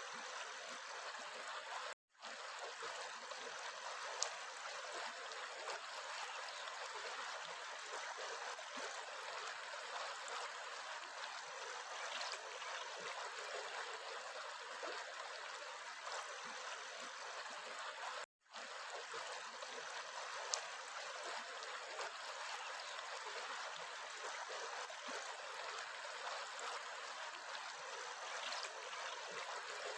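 Steady rushing and trickling of a flowing stream. The sound drops out to silence for a split second twice, about two seconds in and again near the middle.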